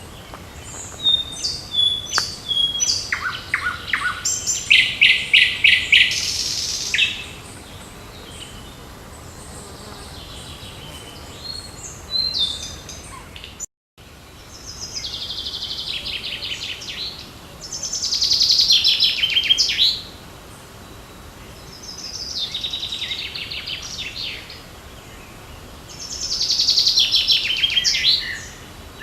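Songbirds singing in the open: short phrases of quick, high notes, each lasting two to three seconds and repeated every few seconds, some falling in pitch towards their end. The sound cuts out for a moment about halfway through.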